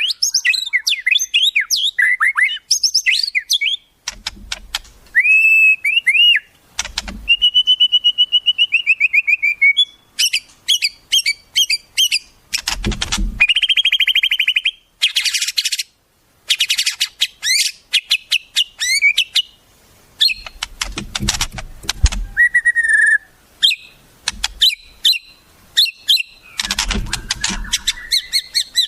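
Wild songbirds singing a fast, varied run of clear whistles, sweeping notes, trills and rapid repeated chirps, with a short pause a little past the middle. A few brief low rumbles sit underneath now and then.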